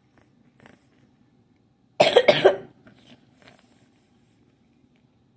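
A person coughs hard several times in quick succession, about two seconds in, a reaction to the heat of the extremely spicy chip just eaten. A few faint breaths come before and after the coughs.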